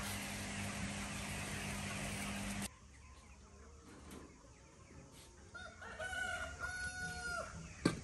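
A steady noise with a low hum cuts off abruptly about a third of the way in. Later comes a single drawn-out animal call, held at a steady pitch for about two seconds.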